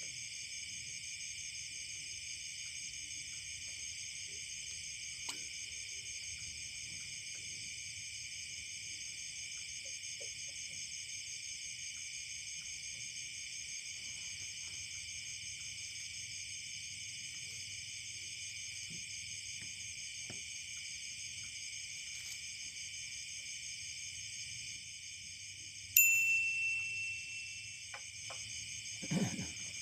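Steady, dense insect chorus of crickets or cicadas, a high buzzing in several layered bands. Near the end a single bright ding rings out for about two seconds, followed shortly after by a short low thump.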